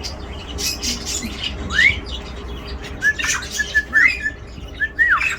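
Parrot whistling and squawking between words: a rising whistle about two seconds in, then a run of short whistled notes and chirps, ending with a falling whistle near the end.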